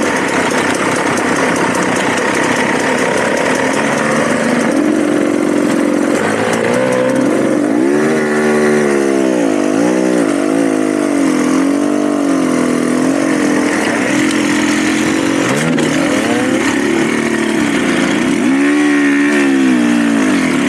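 Dirt bike engine running under way, the revs rising and falling over and over through a long busy stretch past the middle and again near the end.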